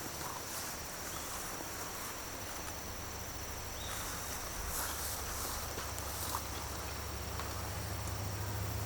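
Outdoor ambience: a steady high insect trill over a low hum, with a few faint clicks.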